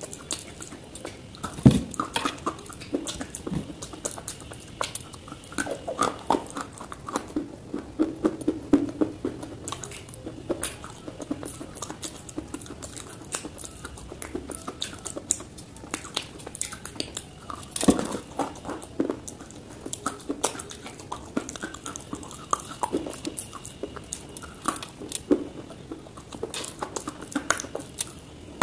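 Close-up crunching and chewing of chunks of dry white clay, irregular brittle crunches with sharper bites about two seconds in and again around eighteen seconds.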